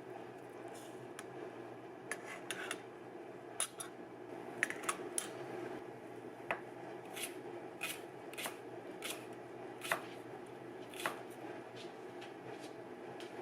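Kitchen utensils being handled: light, irregular clicks and taps, one or two a second, over a steady low hum.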